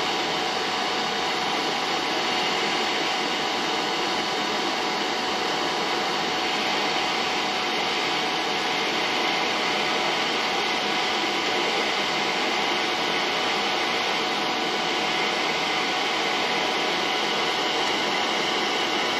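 Steady, unchanging machine hiss, like a running fan or blower, with a faint steady whine through it.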